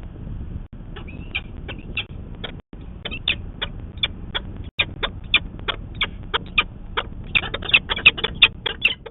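Peregrine falcon giving a rapid series of short, sharp repeated calls, starting about a second in and crowding into a faster, louder run near the end, over a steady low background rumble.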